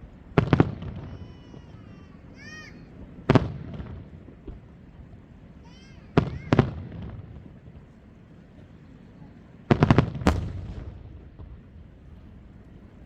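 Aerial fireworks shells bursting in loud, echoing bangs in four groups: a quick double or triple bang at the start, a single one, a pair, then a rapid cluster of several near the end.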